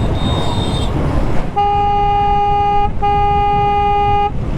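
A vehicle horn sounds two long steady blasts back to back, each a little over a second. Beneath them runs the constant low wind and engine rumble of a motorcycle underway.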